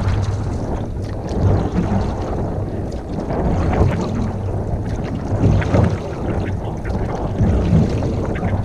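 Wind rumbling on the microphone over the water noise of a canoe being paddled, the sloshing swelling about every two seconds.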